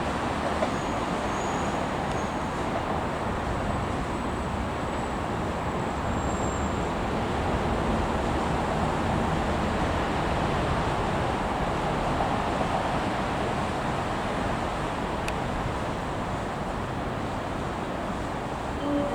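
Steady rumbling noise of a train running past on the line, with a single sharp click about 15 seconds in.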